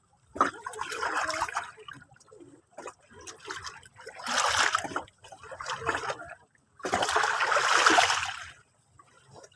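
Sea water splashing and washing in separate surges, about four in a row, the longest near the end, with short quiet gaps between them.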